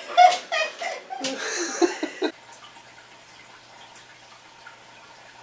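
A person's voice, cut off sharply about two seconds in, followed by faint room tone with a low hum.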